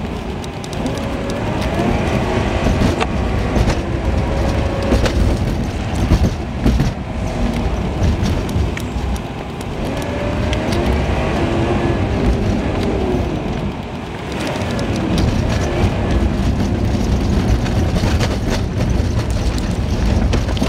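Dash cam sound from inside a moving car, played at three times normal speed: steady engine and road rumble with the engine note gliding up and down, and scattered short knocks.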